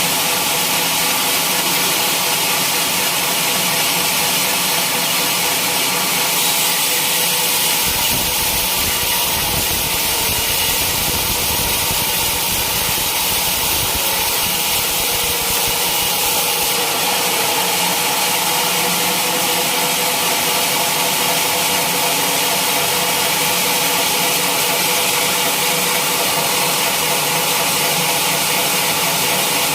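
Sawmill machinery running steadily: a continuous mechanical hum with a strong hiss on top. A deeper rumble joins about a quarter of the way in and drops away a little past halfway.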